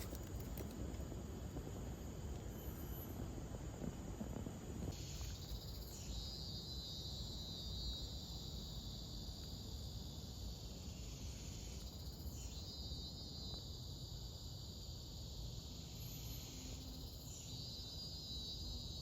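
Rainforest insects calling in a high-pitched, pulsing buzz. It starts about five seconds in and comes in three waves of several seconds each, over a low rumble on the microphone.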